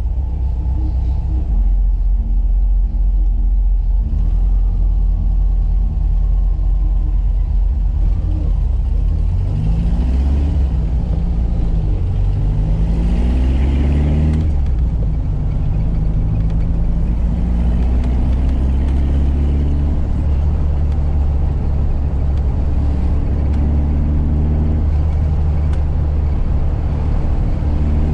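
1985 Volkswagen Fusca's air-cooled flat-four engine running on the road; about a third of the way in it revs up in several rising sweeps as the car accelerates through the gears, then settles to a steady cruise.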